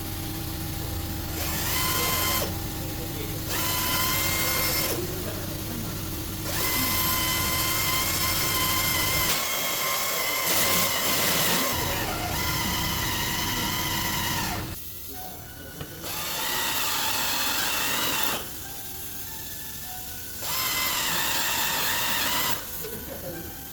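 Power tool, drill-like, run in repeated spells of one to three seconds with short pauses between, each a steady whine over a hiss.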